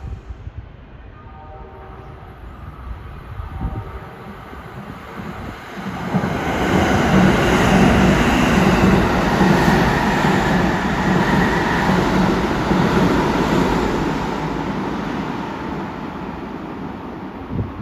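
Kintetsu electric train running through the station: its rumble builds about six seconds in, stays loud with a steady motor whine for several seconds, then fades away near the end.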